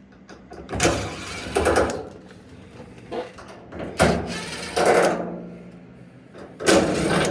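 Cordless drill with a Phillips bit backing screws out of the dryer's sheet-metal panel: three short runs of about a second each, with sudden starts.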